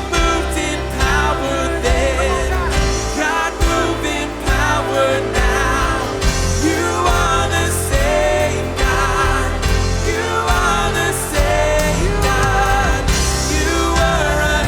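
Live worship band playing a full arrangement: drums, bass, guitars, piano and synth, with wavering sung melody lines over the band.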